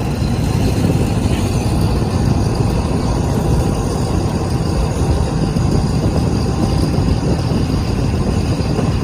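Diesel train running past with a steady, noisy rumble.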